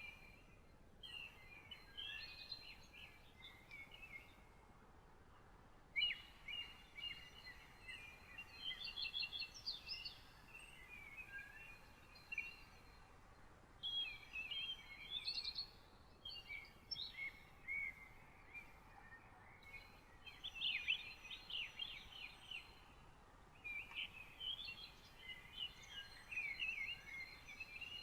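A songbird singing quick, warbling phrases of a few seconds each, repeated with short pauses between them, over a faint steady background hiss.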